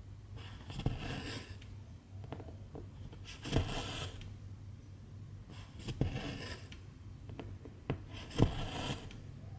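Silk embroidery thread being pulled through cross-stitch fabric: four rasping pulls about two and a half seconds apart, each starting with a sharp tick of the needle.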